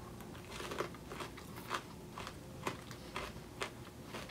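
Someone chewing hard Cocoa Puffs cocoa-glazed popcorn, with a sharp crunch about every half second. The glaze makes the popcorn tough, hard chewing.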